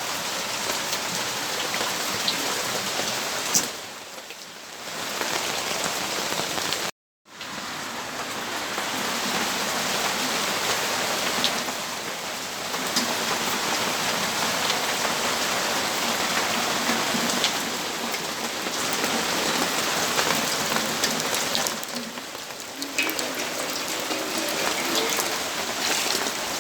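Steady rainfall: a dense, even hiss of rain with scattered sharper drop ticks. It eases briefly around four seconds in and cuts out completely for a split second about seven seconds in.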